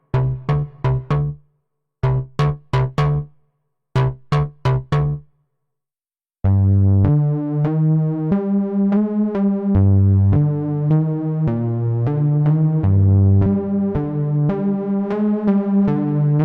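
Waldorf Pulse 2 monophonic analog synthesizer playing two presets: first short, clipped staccato notes in quick runs of four or five with short gaps, then after about a second of silence a new patch comes in, a sustained bass line of connected notes rich in overtones.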